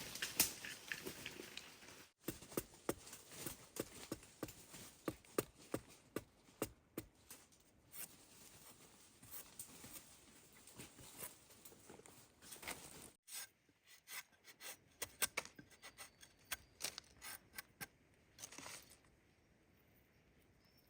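Irregular crisp snapping and tearing of plant material being worked by hand, a few snaps a second, thinning out near the end.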